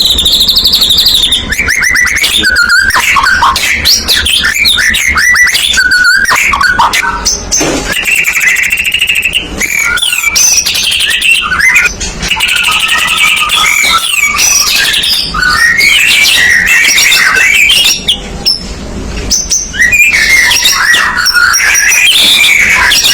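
White-rumped shama (murai batu) singing loudly and without let-up: a fast, ever-changing song of clear whistles, rapid trills and quick pitch glides, easing briefly about three quarters of the way through.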